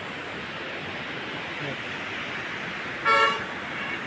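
Steady rushing of river water, with one short vehicle horn toot about three seconds in.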